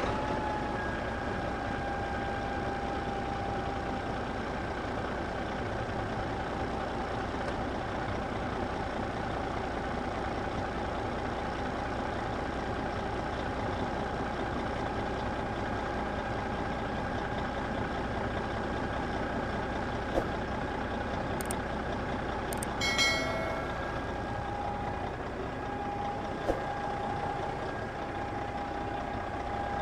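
A small motor running steadily with an even whine. There are a few sharp clicks, and a brief higher tone about two-thirds of the way in.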